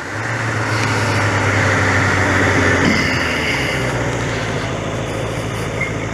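A vehicle engine running at a steady speed under heavy wind rush.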